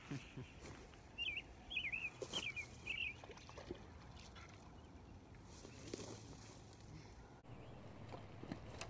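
A bird calling: four short, wavering high chirps starting about a second in, a little over half a second apart, over faint outdoor background.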